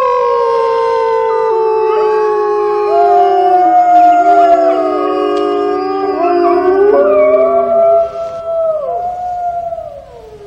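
A pack of Arctic wolves howling in chorus: several long howls overlap at different pitches, each sliding slowly, mostly downward, with new voices joining and the chorus fading briefly near the end.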